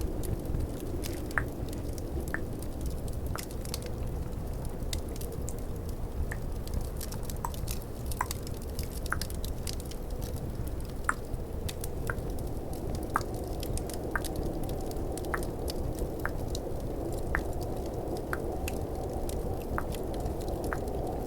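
Tongue clicking close to the microphone: short wet clicks, roughly one a second, each with a small pitched pop. Underneath is a steady rumbling snowstorm-and-fireplace ambience with faint crackles.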